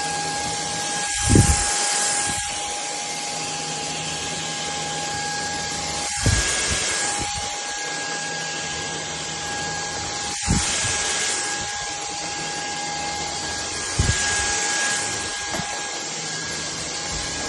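Bulelink cordless stick vacuum running steadily with a whining motor and airflow hiss. A low thump comes about every four seconds as it is worked back and forth.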